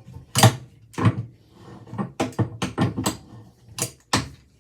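Sharp clicks and knocks at uneven intervals, about a dozen in all, from work on a stuck threaded part of a ceiling fan that is being unscrewed during teardown.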